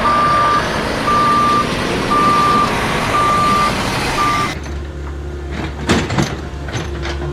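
Truck reversing alarm beeping about once a second at one steady pitch, over a steady engine-like rumble. Both cut off abruptly about four and a half seconds in. A low hum follows, with sharp clicks and small whirring mechanical sounds like model gears and servos.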